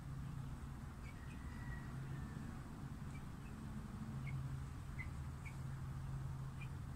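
Short, high bird chirps, scattered about eight times over a few seconds, with one faint longer whistle near the start, over a low steady hum.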